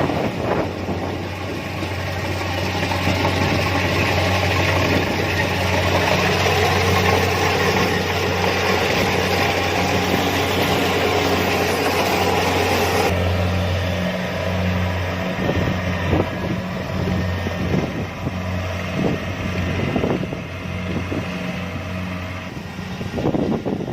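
Kubota DC-70 Plus combine harvester running, a steady diesel engine hum under a loud rushing mechanical noise. About halfway through the rushing noise drops off suddenly, leaving the engine hum with scattered knocks and rattles.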